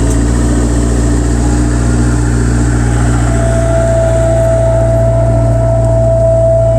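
Bobcat 763 skid steer's diesel engine running steadily, after it has just hooked onto an attachment. A higher steady whine joins about halfway through.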